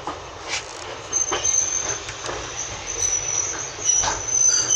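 Passenger carriage wheels squealing as the train moves slowly: a steady high-pitched squeal sets in about a second in, over running rumble and a few clanks.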